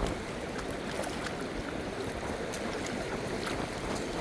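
Steady rain and surf on a beach, an even wash of noise with scattered sharp raindrop ticks close by.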